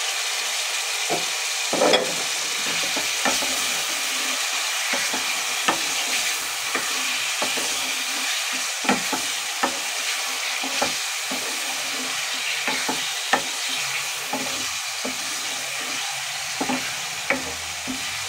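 Raw chicken pieces sizzling in hot oil in a wok-style pan, with a steady hiss. A wooden spoon stirs them, knocking against the pan in irregular clicks.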